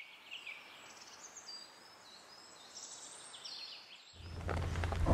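Faint room ambience with birds chirping: short high chirps and quick glides over a soft hiss. About four seconds in, a steady low hum comes in and the sound grows louder.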